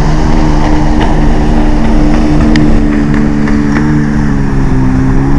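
Honda CRF50 dirt bike's small single-cylinder four-stroke engine running at a steady speed. Its pitch dips slightly and rises again about four to five seconds in.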